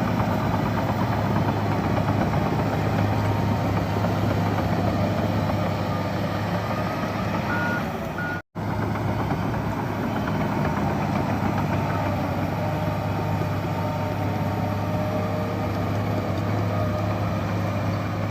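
Bulldozer's heavy diesel engine running steadily, with a few short high beeps from a reversing alarm. The sound cuts out for an instant about eight seconds in.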